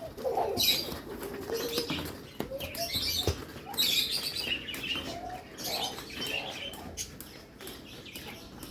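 Baby parrot chicks giving short, high, rough chirps, about one a second.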